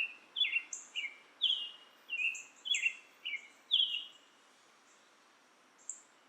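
Birds calling: a quick series of short falling notes that stops about four seconds in, with thin high chirps above, over a faint outdoor background hiss.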